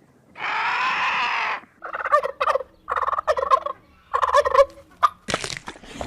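Turkeys gobbling: three quick, warbling gobbles in a row, after one long drawn-out call.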